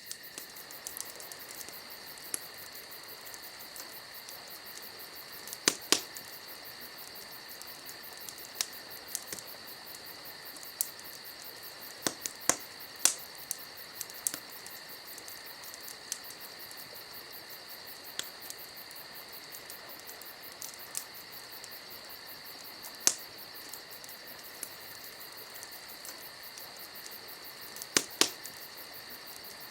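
Crickets chirping steadily in a high, fast trill, over a campfire crackling with sharp irregular pops, a few of them much louder than the rest.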